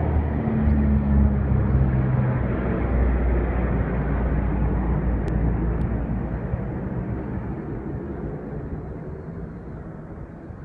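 An airplane passing, its engine noise loudest about a second in and then fading steadily as it flies away.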